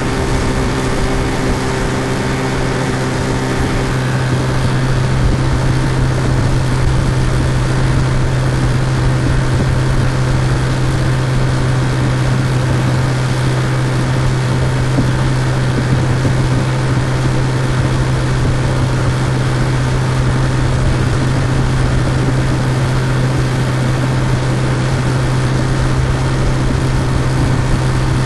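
Looped sound effect of an outboard motor running steadily at speed, with an even low hum. The upper tones shift slightly about four seconds in.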